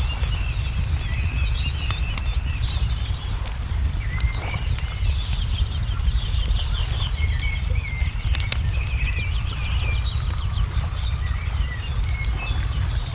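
Wood fire crackling with scattered sharp pops, under many songbirds chirping and trilling, over a steady low rumble.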